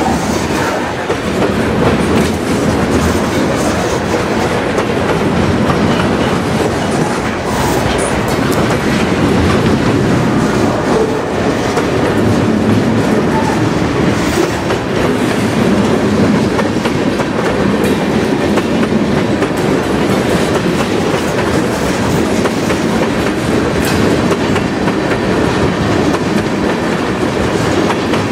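Freight train passing close by: covered hopper cars and then tank cars rolling past in a steady loud rumble of steel wheels on rail, with a few sharp clicks from the wheels over rail joints.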